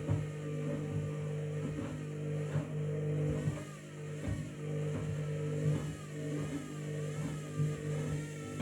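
Washing machine drum motor running with a steady hum and a higher whine that rises and falls over and over as the drum changes speed, with occasional thuds from the bath mat tumbling in the drum.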